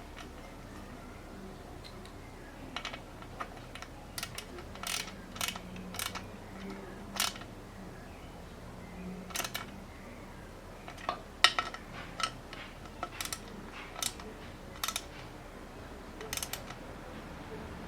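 Irregular sharp clicks and light metallic taps of tools and bicycle parts being handled during assembly, the loudest about halfway through.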